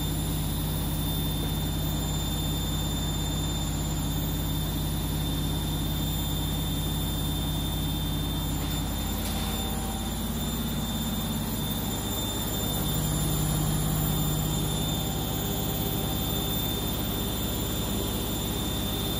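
Siemens front-loading washing machine spinning: a steady motor and drum hum that shifts in pitch about ten seconds in and swells a little soon after. It is spinning at a lower speed before ramping up to its 1400 rpm final spin.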